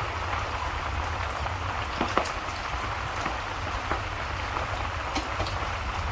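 Steady rain hissing, with a low rumble underneath and a few scattered sharp pops and crackles from a wood fire.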